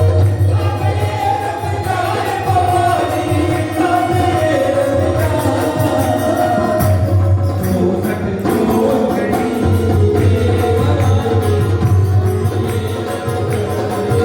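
Devotional bhajan music: a sung melody over a steady percussion accompaniment.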